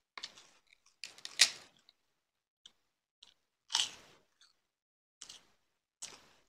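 Close-miked eating sounds: crunchy bites and chewing on crisp food in about six short bursts, the loudest about a second and a half in.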